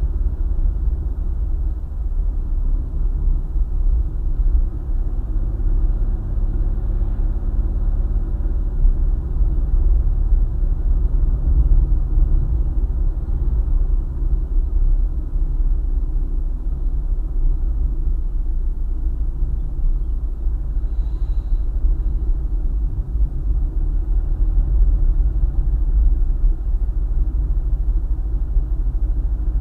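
Steady low rumble of a car driving along a highway: continuous road and engine noise.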